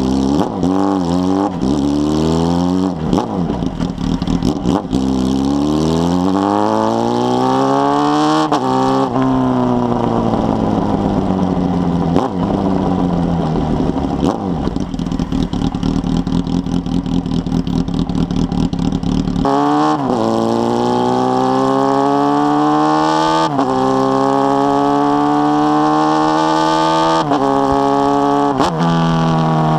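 Honda Hornet 600 inline-four engine through a 4-into-1 exhaust, accelerating through the gears with quick upshifts. The revs fall away slowly for about ten seconds, then jump back up and climb again with three more shifts near the end.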